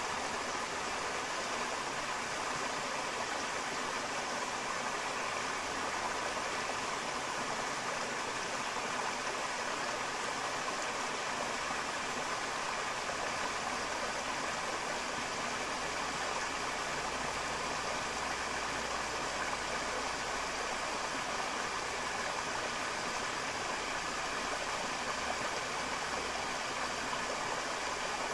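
Forest river water flowing steadily over rocks, an even rushing.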